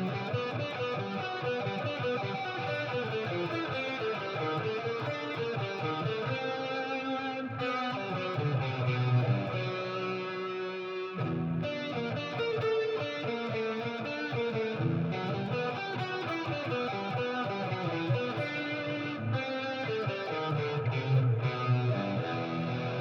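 Electric guitar played through a FREQ envelope filter pedal in its envelope mode: a continuous run of picked notes and chords.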